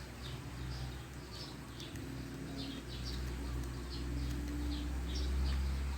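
Small birds chirping in the background, short high chirps repeating irregularly several times a second, over a steady low hum.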